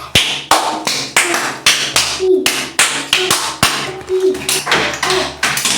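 Hands tapping and clapping a rhythmic beat, about three sharp strokes a second, with a few short hummed notes between them.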